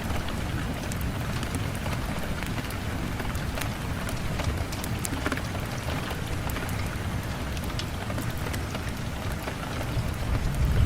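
Steady rain on a window, with scattered sharp ticks of drops and a deep low rumble that swells near the end.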